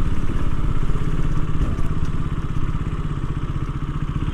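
Motorcycle engine running steadily, with a fast, even pulsing.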